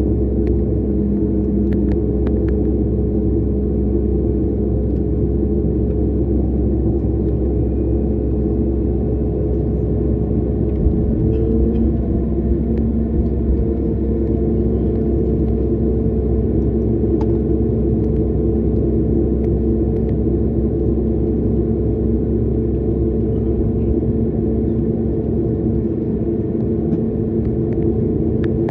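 Jet airliner cabin noise: the engines and airflow run with a steady low rumble and a held engine tone that shifts slightly higher about twelve seconds in.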